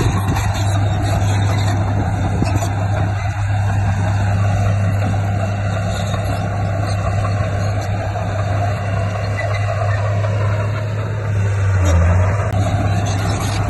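Komatsu D58P bulldozer's diesel engine running steadily, a deep continuous hum that swells briefly about twelve seconds in.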